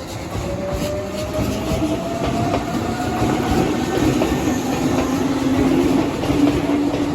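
Hankyu 3300 series electric train running, its motor and gear whine rising steadily in pitch as it accelerates, over a growing rumble and clatter of wheels on the rails.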